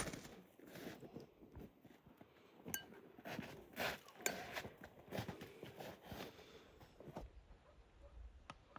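Faint scattered clicks, clinks and knocks, busiest in the middle, like dishes and spoons being handled.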